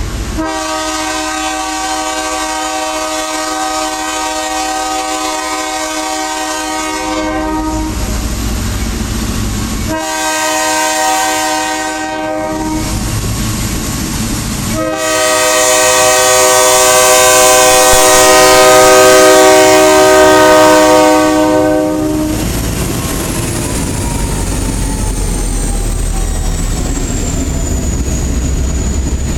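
Freight locomotive's chime horn sounding for a grade crossing: a long blast, a short one, then a long, loudest blast, each a chord of several notes. The horn stops about 22 seconds in, leaving the train running past over the rails with a slowly falling tone.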